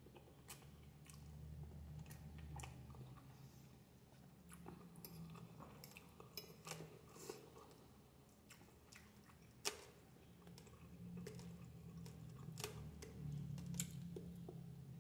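Quiet close-up chewing of spaghetti with sausage: irregular soft, wet mouth clicks and smacks, with one sharper click about ten seconds in, over a faint low hum.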